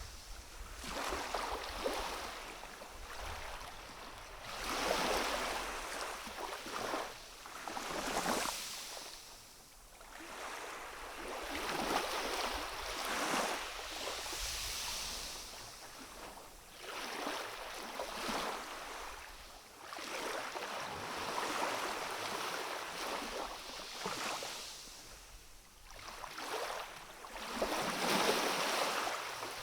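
Gentle waves washing against a rocky shore: a hiss of surf that swells and ebbs every few seconds.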